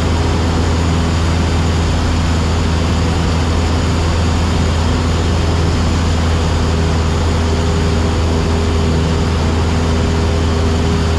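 Cessna 172SP's four-cylinder Lycoming engine and propeller running steadily in cruise flight, heard inside the cabin as a constant low hum with a haze of noise over it.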